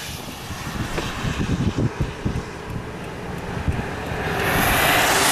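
Wind buffeting the microphone with uneven low rumbles, then a louder, steady rush of noise from about four seconds in.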